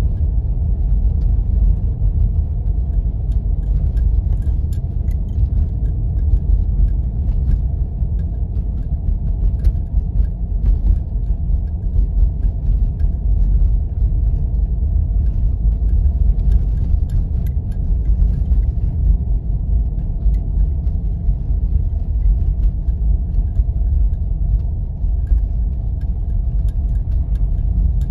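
Jeep driving on snow-covered roads: a steady low rumble of engine and tyres, with scattered light ticks.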